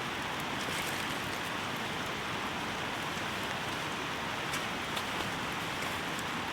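Heavy rain falling steadily, with a few separate drop-like ticks near the end.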